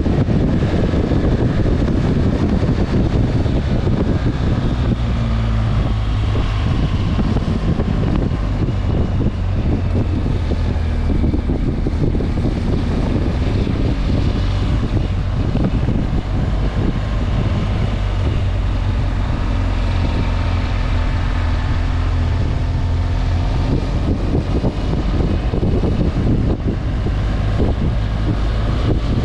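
Motorcycle engine running steadily under way, its pitch rising and falling a little, with wind buffeting the microphone.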